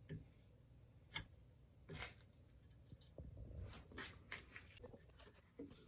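Faint, scattered scrapes and taps of small hand tools chipping and prying pieces out of a pine wood block, about half a dozen short strokes with pauses between.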